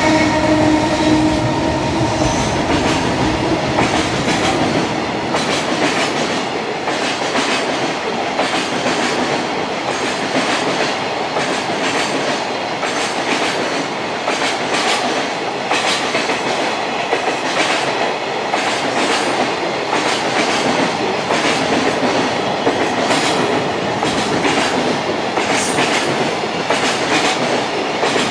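A long freight train of container wagons passing close by, a steady rumble with repeated clickety-clack of wheels over rail joints. A squeal of wheels at the start fades out within the first couple of seconds.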